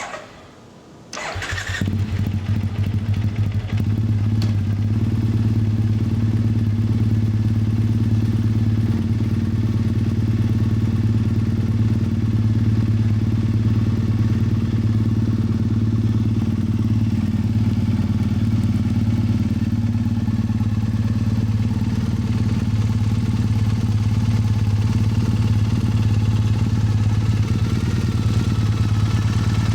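Triumph Bonneville EFI parallel-twin started through aftermarket Toga classic-style exhaust: a click, a brief crank, and the engine catches about a second in, then settles into a steady, deep idle.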